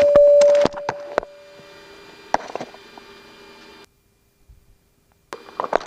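A steady single-pitch electronic tone sounds in the jet's cockpit for about a second, over a steady electrical hum from the aircraft's systems. The hum cuts off abruptly about four seconds in as power is shut down, leaving silence, and handling clicks follow near the end.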